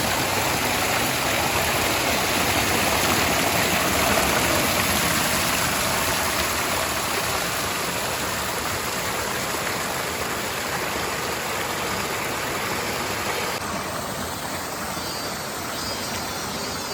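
Steady rush of water from a small mountain waterfall tumbling over rocks. The sound changes abruptly a few seconds before the end.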